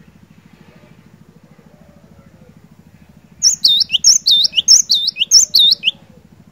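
Cinereous tit (glatik batu) singing a loud, rapid run of about four repeated high, ringing phrases, starting about halfway through and lasting roughly two and a half seconds. A faint steady low hum sits underneath.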